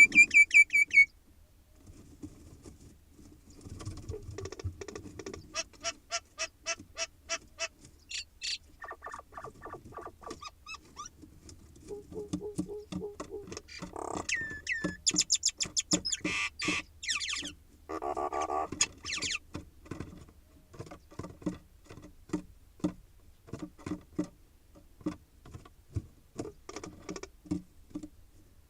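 Common mynas calling at close range inside a nest box: a varied run of chattering, clicking rattles and whistles, with high shrill whistles about halfway through. In the last third come short taps and scratches, about one or two a second.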